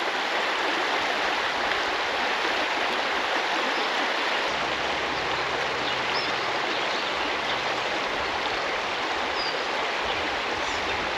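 Creek water running steadily over rocks, an even rushing hiss; a low rumble joins it about four seconds in.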